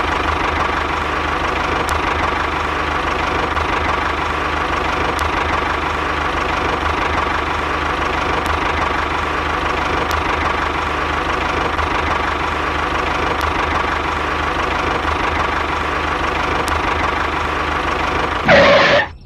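Small motor of a DIY mini model tractor running steadily with an even hum, with a brief louder burst just before the end.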